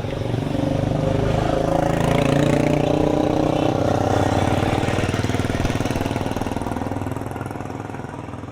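A motor vehicle's engine running close by, growing louder and then fading away as it passes.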